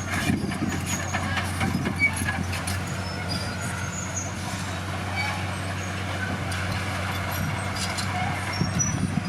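Heavy diesel earthmoving machinery running steadily with a low, even engine hum, over scattered light clicks and short high squeaks.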